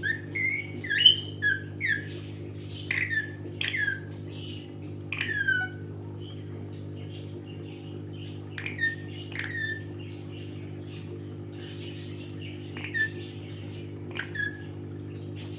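Parrot calling in short squawks that each drop quickly in pitch, coming fast for the first six seconds or so and then scattered, over a steady low hum.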